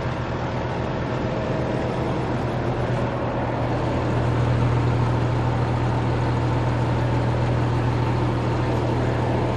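Rally race truck's diesel engine running steadily at the start line, a little louder from about four seconds in.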